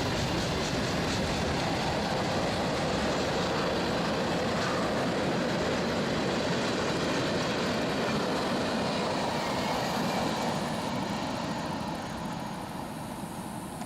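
Freight train rolling past, a steady rumble of railcars on the track that starts to fade about ten seconds in as the train moves away.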